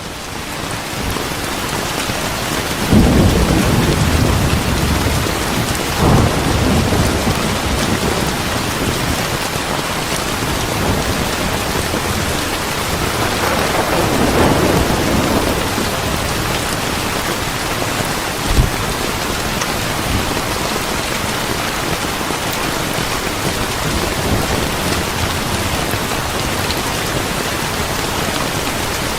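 Steady rain falling, with low rolls of thunder a few seconds in, again soon after, and a longer rumble about halfway. A short sharp thump comes about two-thirds of the way through.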